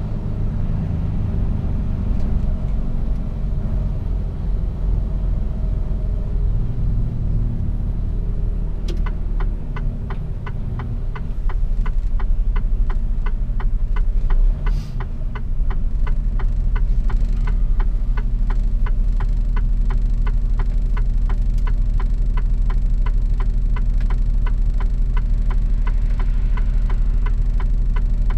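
Mercedes-Benz Actros truck's diesel engine rumbling, heard from inside the cab, its note shifting as the truck slows and then settling to a steady idle. From about nine seconds in, the turn-signal indicator ticks evenly, about one and a half ticks a second.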